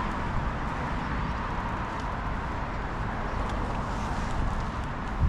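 Steady rushing noise of a bicycle being ridden along a street: wind on the microphone with a low rumble, plus a few faint ticks.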